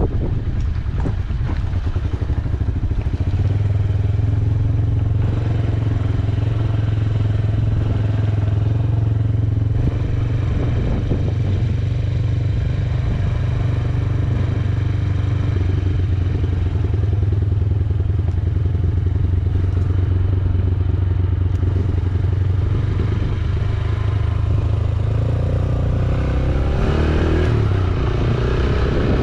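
Yamaha YBR125G's single-cylinder engine running steadily while the bike is ridden along a mountain road, with rattling knocks in the first few seconds.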